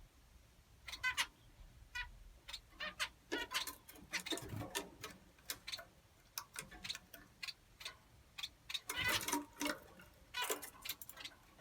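Small finches calling: many short chirps in uneven bursts, the busiest and loudest cluster about three quarters of the way through.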